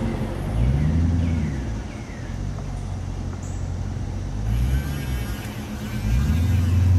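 A motor vehicle's engine, its pitch rising and falling three times, then settling into a steady low hum near the end, over road traffic noise.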